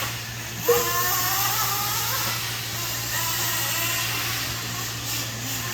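Nitro RC racing truck engines whining at high revs, their pitch rising and falling as the trucks accelerate and lift off around the track. A steady low hum runs beneath.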